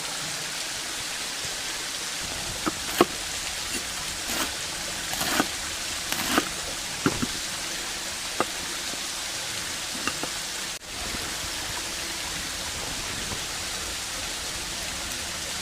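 Steady rush of a waterfall, with a scattering of short, sharp knocks and clicks over its first half, the loudest a few seconds in, as of cooking gear being handled.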